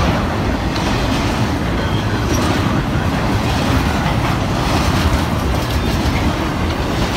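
Intermodal freight train cars, double-stack containers and highway trailers on well cars, rolling past. The steel wheels make a loud, steady rumble and clatter on the rail.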